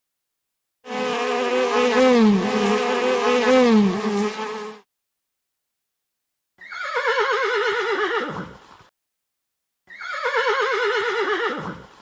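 Three animal calls with silence between them: a long, wavering call of about four seconds, then two shorter horse whinnies that start high and fall away with a quaver.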